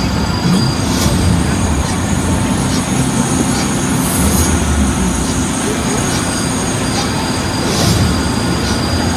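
Universal Studios backlot tram running: a steady low rumble with thin, high, steady whining tones over it.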